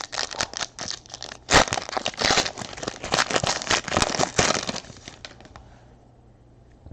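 Foil wrapper of a trading card pack being torn open and crinkled, a dense crackling that is loudest about a second and a half in and dies away after about five seconds.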